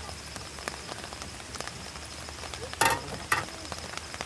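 Rain pattering on a car roof, with scattered drop ticks and a high, pulsing cricket trill. Two sharp knocks sound about three seconds in, half a second apart.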